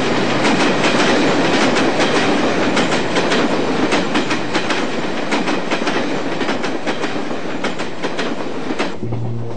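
Moving train: its wheels clack over the rail joints again and again above a steady rumble. Near the end the clatter drops back and a low held tone comes in.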